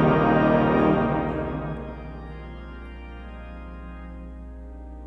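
Pipe organ holding a full chord that falls away after about a second and a half to a softer sustained chord, at the close of a hymn introduction.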